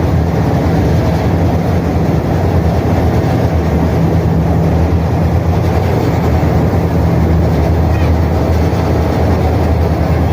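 High-speed ferry's MAN diesel engines droning steadily at cruising speed, with the rush of water churned up by the propellers.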